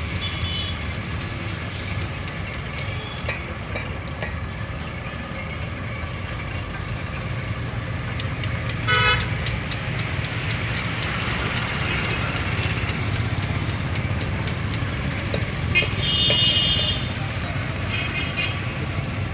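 Road traffic rumbling steadily, with short vehicle horn toots: one about nine seconds in, and a few more between about fifteen and nineteen seconds.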